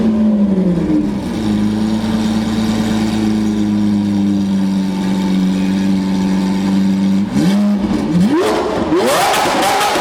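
Lamborghini Aventador V12 through a Capristo aftermarket exhaust: the engine holds a steady drone at a constant pitch, then about seven seconds in it accelerates hard, its pitch climbing in several quick rises, each cut short by an upshift.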